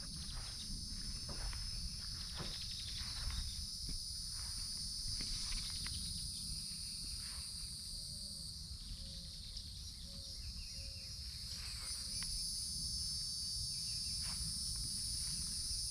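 Steady, high-pitched chorus of insects, with a constant low rumble underneath.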